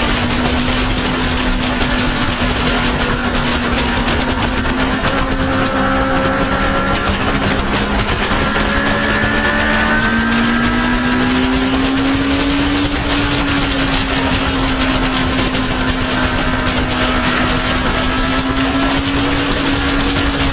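Motorcycle engine running at a steady cruise, its pitch drifting gently and rising slowly about halfway through, under a loud rush of wind noise on a GoPro riding along with the bike.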